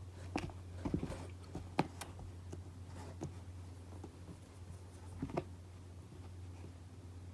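Short scratchy taps and rustles of a kitten's claws and paws on cardboard, in clusters between about half a second and two seconds in and again near five seconds, over a steady low hum.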